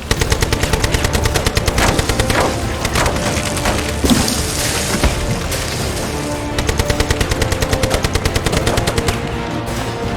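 Sustained automatic gunfire, a fast, even rattle of shots that eases off briefly in the middle and then picks up again, over a film score.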